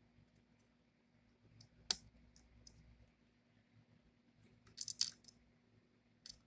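Small sharp metallic clicks and light rattles: a tiny laptop screw and screwdriver tapping against a cooling fan and chassis as the screw is set in place. A scattered run of clicks about two seconds in, the loudest among them, and a quicker cluster about five seconds in.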